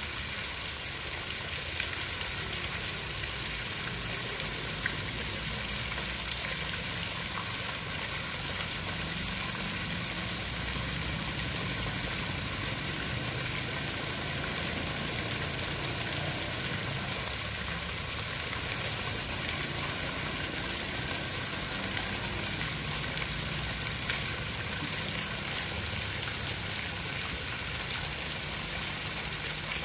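Steady water noise: an even, unbroken hiss with a low rumble beneath it.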